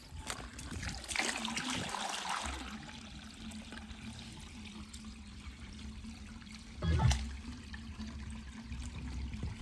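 Water trickling and splashing on a JBL Essential waterproof speaker. After about two and a half seconds the speaker adds a low, steady bass, and there is one louder thump near the end.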